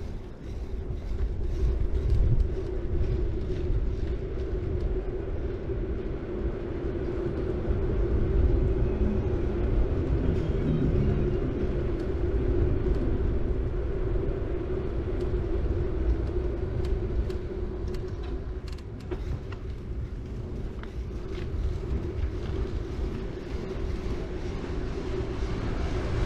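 City bike rolling steadily along the road: tyre noise and a low rumble, with a steady hum throughout and scattered light clicks.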